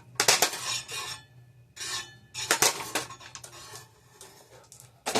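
A running ceiling fan's blades striking a loose spare fan blade, making a series of sharp clattering impacts in the first three seconds and one more near the end.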